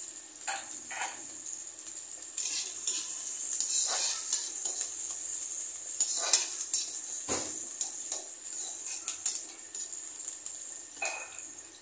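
Chopped ginger and green chillies sizzling in hot oil in a metal kadhai: a steady hiss. A perforated metal ladle stirs them, scraping and clinking against the pan several times.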